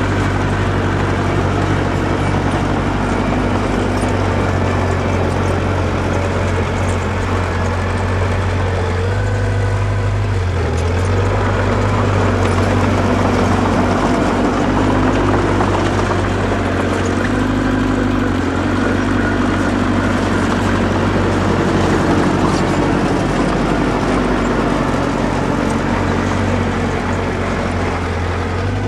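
Diesel engine of an earthmoving machine running steadily, its low drone shifting briefly about ten seconds in.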